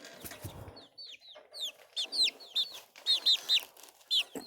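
Young chickens peeping: short, high calls that slide downward in pitch, coming in quick runs of two or three, mostly in the second half.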